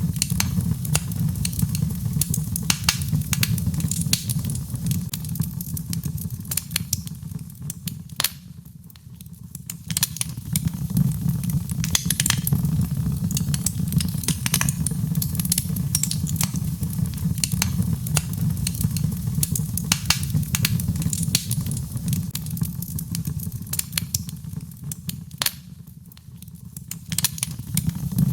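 Birch logs burning in a fireplace, crackling with frequent sharp pops over a steady low rush of flame. Twice the fire briefly quiets, about a third of the way in and again near the end.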